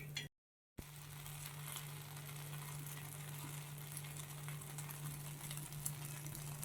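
Oreo-batter Dora cake sizzling as it cooks in butter in a pan after being flipped, a fine steady crackle and hiss over a low steady hum. The sound cuts out briefly about half a second in.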